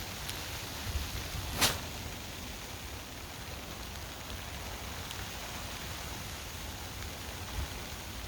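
Steady hiss of wind-driven snow and wind, with low gusts buffeting the microphone and one sharp crack or tap about one and a half seconds in.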